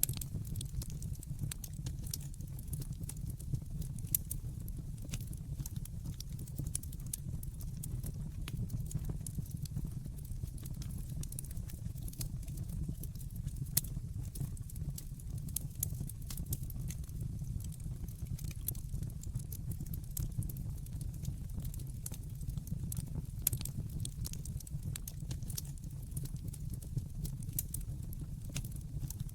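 Wood fire burning in a fireplace: irregular crackles and small snaps over a steady low rumble of the flames.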